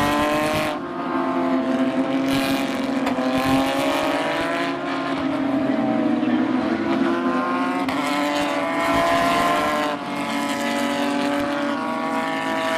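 Porsche GT3 Cup race cars' 3.8-litre naturally aspirated flat-six engines at high revs. The pitch climbs several times, with short dips in between, as the cars shift up through the gears.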